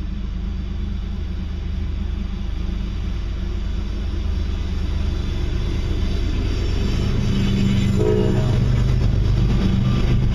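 Freight train's diesel locomotives running, a steady low rumble that grows louder as the train approaches, with deeper steady tones joining about seven seconds in.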